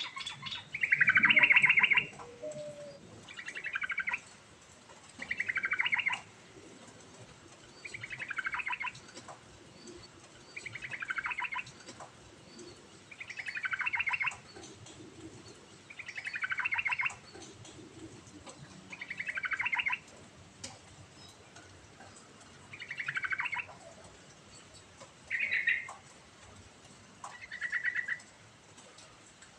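Yellow-vented bulbul (trucuk) singing, a loud rapid rattling phrase that falls slightly in pitch, repeated about every two and a half seconds. The first phrase is the loudest.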